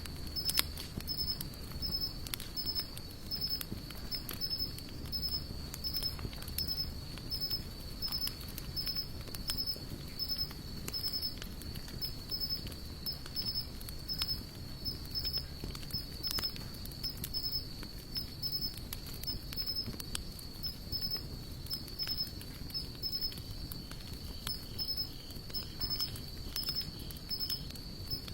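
A wood fire of sawtooth oak and mixed hardwood logs crackling, with scattered sharp pops. Behind it an insect chirps steadily in an even, repeating high pulse.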